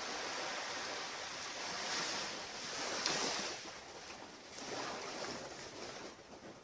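Surf washing onto a beach, swelling louder about two and three seconds in and again near five seconds.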